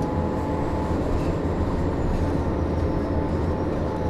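Inside a 2002 Neoplan AN440 transit bus: its Cummins ISM diesel runs steadily under a really loud engine cooling fan that is stuck on, a constant low rumble with a steady hum above it.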